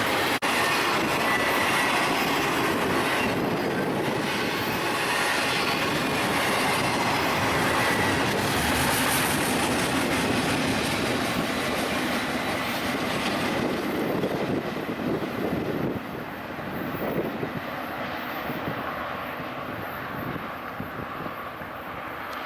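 Train rolling past on the Union Pacific line: the steady sound of steel wheels running on the rails, growing quieter about two-thirds of the way through.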